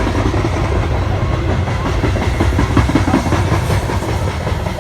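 A train rolling past close by: a steady low rumble with the clatter of its wheels on the rails, busiest towards the middle.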